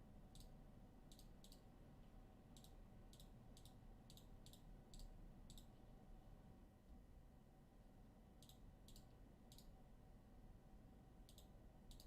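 Faint, sharp clicks, about a dozen, irregularly spaced and partly in quick pairs and clusters, over near-silent room tone with a low hum.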